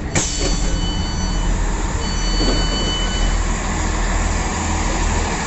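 GWR passenger train running, a steady rumble and rushing noise, with a thin high whine heard twice.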